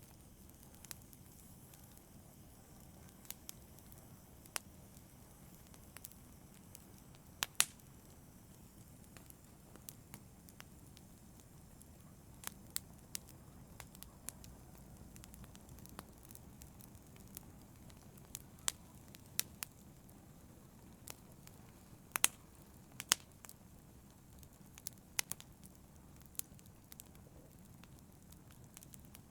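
Wood fire in a fireplace crackling: irregular sharp pops and snaps over a low, steady rumble of burning, with a few louder pops.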